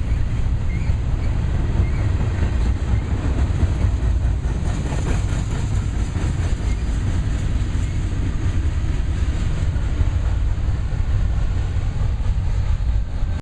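BNSF intermodal freight cars rolling past on the track: a steady, loud noise of steel wheels on rail.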